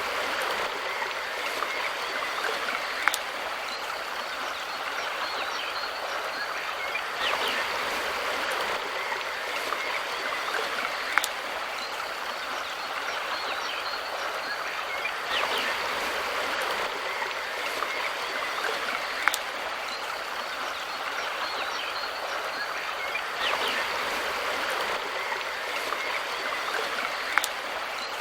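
River water flowing steadily, a continuous rushing with short sharp splashes or clicks about every eight seconds.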